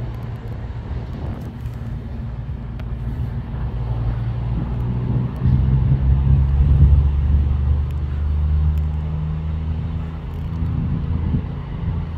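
A train's low, steady engine drone at the platform, with several held low tones that step up and grow louder about five seconds in, then ease off.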